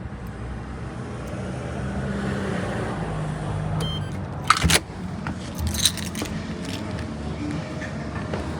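Car engine running while driving, a steady low hum, with short metallic jingling clicks about halfway through and again a second or so later.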